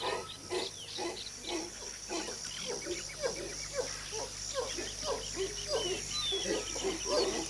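Howler monkeys giving a rapid series of short, falling grunting calls, about three a second, over a steady high insect drone.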